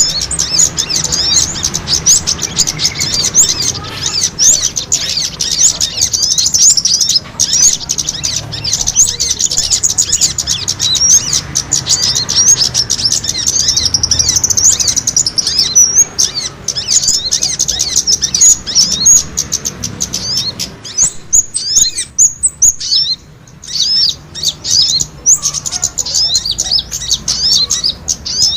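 Bird-lure recording of many small birds' fighting calls: a dense, rapid stream of high-pitched chirps and twitters, briefly thinning out about three-quarters of the way through.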